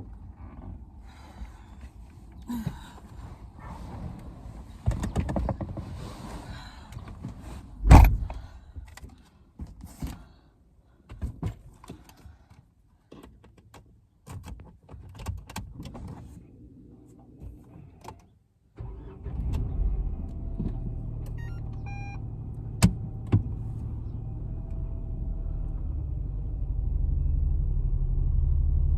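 Scattered clicks, knocks and rustling inside a car, then about two-thirds of the way through a car engine starts and runs with a steady low rumble.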